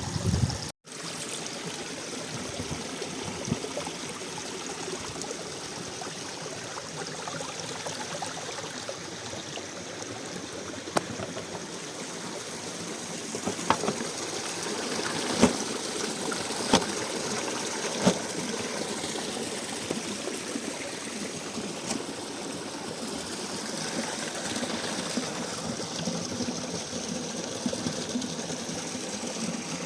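Mountain stream water running steadily, with a few sharp knocks between about 14 and 18 seconds in. The sound drops out for an instant under a second in.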